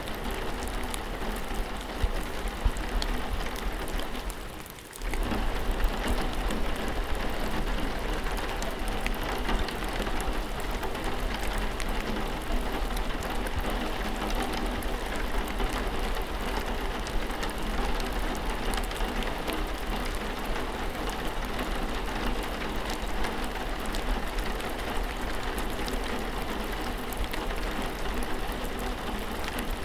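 Steady rain falling, with the fine patter of single drops through it. About four seconds in it fades down briefly, then returns at full strength.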